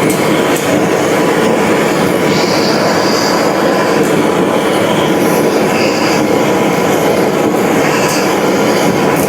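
Steady loud mechanical rumble with brief high squeals recurring every second or two.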